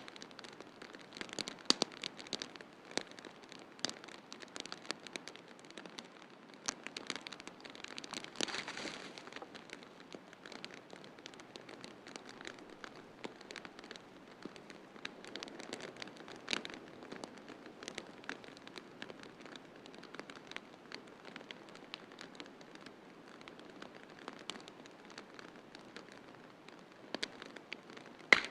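Wood fire in a fireplace crackling, with irregular sharp pops and snaps over a soft steady hiss; the hiss swells briefly about a third of the way in.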